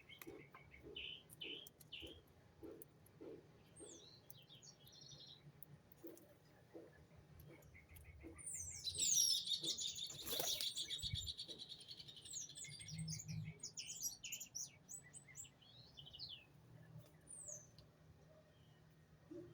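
Small birds chirping and calling in short high notes, with a louder stretch of rapid twittering and falling whistles about nine seconds in, and a sharp click in the middle of it.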